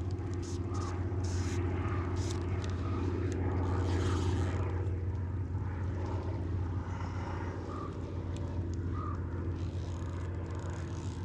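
A motor engine droning steadily, swelling to its loudest about four seconds in and then slowly fading, with a few faint sharp ticks over it.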